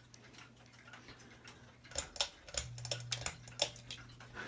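Hunter ceiling fan running with a faint steady hum; from about halfway a run of irregular sharp ticks and clicks sets in.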